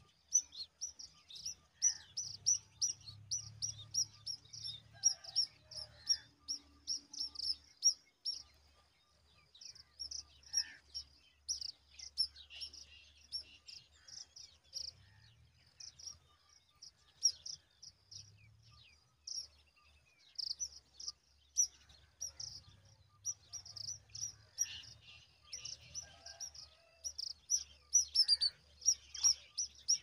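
Small bird chirping: short, high, thin chirps repeated several times a second in runs, with brief pauses between the runs.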